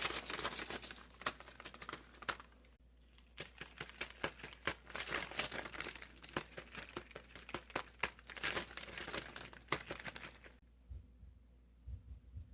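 Folded paper dragon puppet being worked, its paper crinkling and crackling in quick, irregular clicks, with a short pause about three seconds in. The crinkling stops near the end, and a few low thumps follow.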